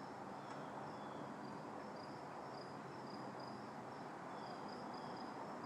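Crickets chirping: faint, repeated high-pitched notes over a steady low background hiss.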